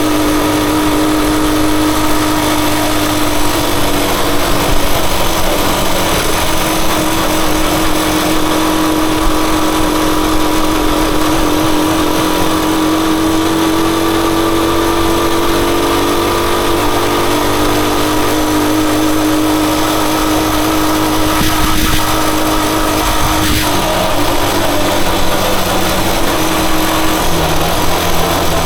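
Rusi Chariot 175 motorcycle engine running steadily on the move, its pitch slowly rising and then dropping near the end.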